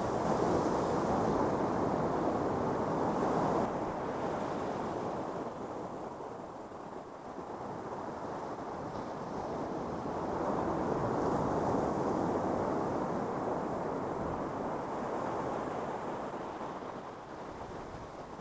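Atlantic ocean surf breaking and washing up a sandy beach, a steady rush of water that swells twice, loudest at the start and again about halfway through, then eases off.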